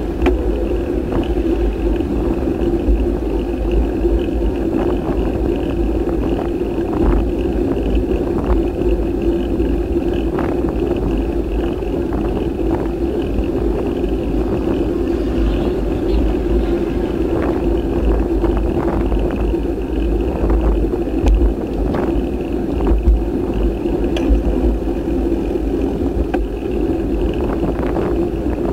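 Riding noise on a moving action camera: wind buffeting the microphone over a steady rumble, with scattered clicks and knocks from bumps along the way.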